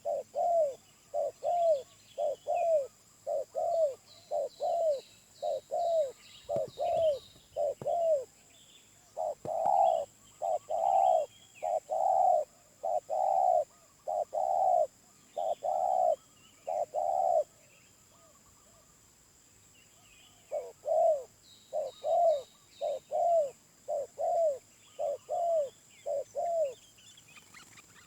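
Spotted dove cooing: a long series of short, repeated coos, about two a second, breaking off for a few seconds past the middle and then resuming. A smaller bird chirps faintly at a higher pitch now and then.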